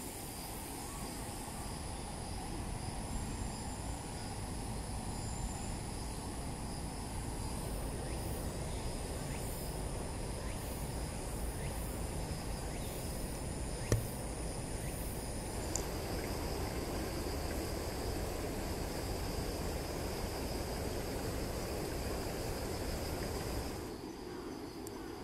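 Crickets singing in steady, high, continuous trills over a low, even background rumble; one of the high trills cuts off about two-thirds of the way through, and a single sharp click sounds near the middle.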